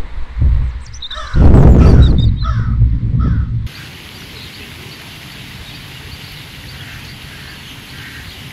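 Birds calling outdoors, three or four harsh calls in a row over wind rumbling on the microphone. About four seconds in the sound cuts to a steadier, quieter outdoor hiss with fainter calls.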